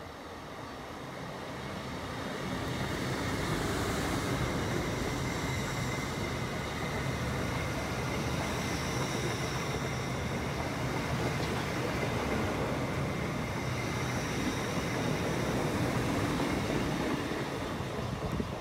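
Lumo Class 803 electric train passing through at speed: a steady rush of wheel and air noise that builds over the first few seconds, holds, then eases near the end, with a faint high whine early on.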